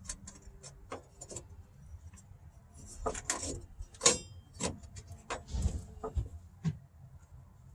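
Scattered knocks, clicks and rubbing as the curved quarter-window glass is set loosely into its opening in a 1955–57 Chevy Nomad body, with a short ringing metal clink about four seconds in and a low shuffling rumble a little later.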